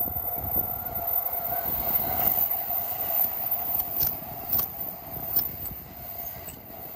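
JR East E353 series electric express train passing close by at speed: a rushing rumble that swells and then eases, with a steady whine. Several sharp wheel clacks come in the second half as the cars go by.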